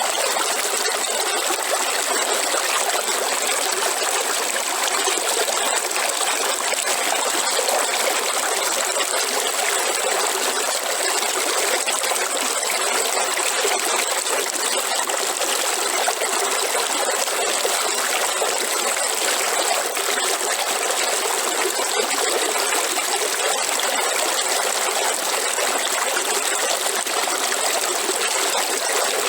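River water flowing and trickling steadily, an even rushing hiss with no breaks.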